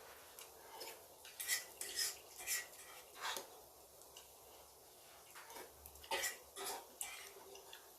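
Cutlery clinking and scraping against dishes during a meal, in two short clusters of sharp clinks separated by a quieter stretch.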